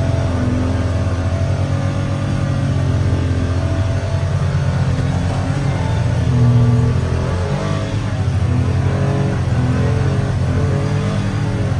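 Vehicle engine running under load while driving, its pitch rising and falling as the throttle changes, strongest around the middle.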